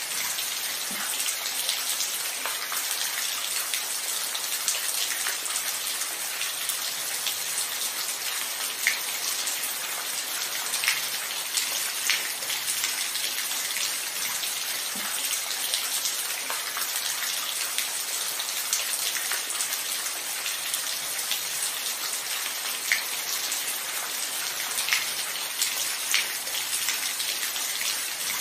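Steady rainfall, an even hiss of falling rain with scattered louder individual drops ticking close by.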